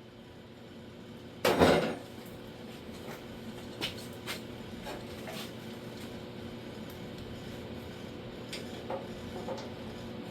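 Metal-on-metal tapping and clanking on a steel door-skin repair panel being worked into place: one loud clatter about a second and a half in, then scattered lighter taps and clinks.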